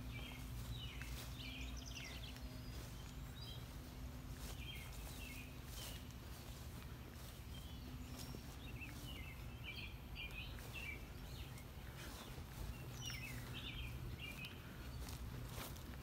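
Songbirds chirping in short bouts of quick notes, over a steady low hum and a few soft clicks.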